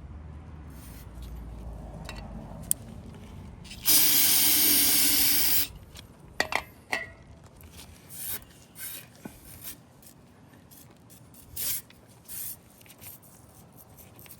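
An aerosol can of solvent cleaner sprays a single long burst of just under two seconds, about four seconds in, onto the engine block. It is followed by scattered clicks, short rubbing sounds and a few brief, fainter hisses.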